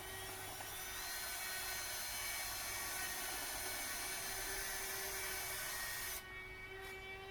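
A power tool running with a high whine and hiss that steps up in pitch about a second in and cuts off suddenly near the end. Sustained steady tones from a music bed run underneath.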